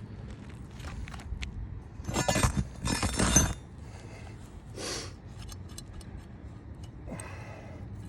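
Asphalt roof shingles being handled and lifted, crackling and scraping in two rough bursts about two to three and a half seconds in, with a shorter scrape near five seconds and another about seven seconds in, and light ticks and clinks between.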